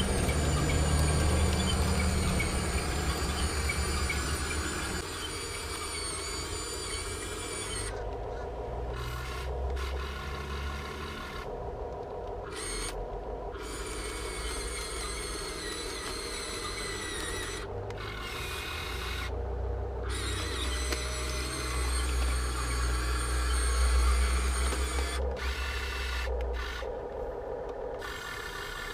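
Electric motors and metal gearing of a Huina 1580 all-metal RC excavator whining as it is operated, the whine cutting out and starting again several times, over a low rumble that is strongest near the start and again past the middle.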